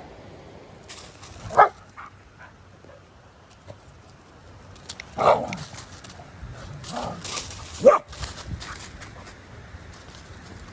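Dog barking: three loud, short barks spread a few seconds apart, with a softer one between the last two.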